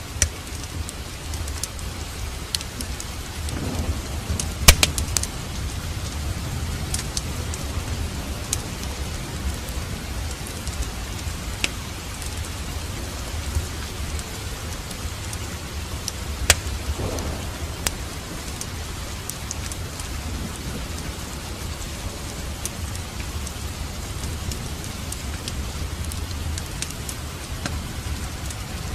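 Steady rain falling, with a low rumble underneath and a wood fire in a fireplace crackling in scattered sharp pops. The loudest pops come a little under five seconds in and again about sixteen seconds in.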